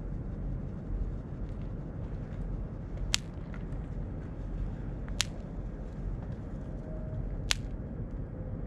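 Small fireworks going off: three sharp cracks about two seconds apart, over a steady low rumble.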